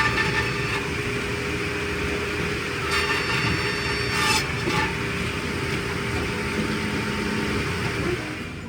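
Engine of firewood processing machinery running steadily, with bursts of clatter about three to four and a half seconds in.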